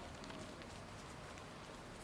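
Faint, soft handling of a gym chalk and cornstarch paste: scattered small ticks and crumbles over a steady low hum, without a crunch.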